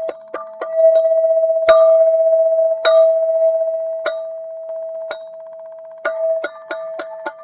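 Golden Zentube struck in a quick run of ringing metallic notes, then a few single strikes about a second apart that are left to ring and fade, then another quick run near the end. One steady ringing tone sustains beneath the strikes.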